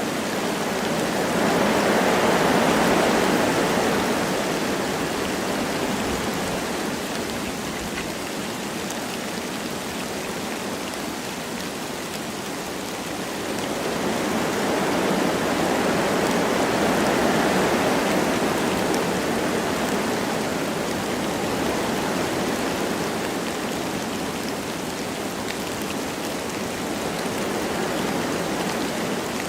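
Wind blowing through forest trees with light rain falling, a steady rushing hiss that swells in two slow gusts, early and again about halfway through.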